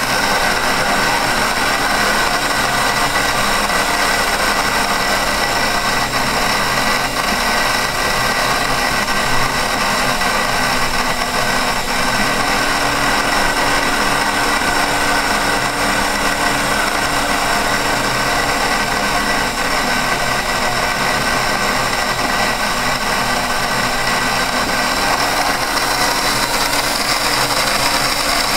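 1960s Unimat mini lathe, converted to CNC, running steadily while slowly turning a wooden workpiece: a constant motor whine with several steady tones over a noisy hum.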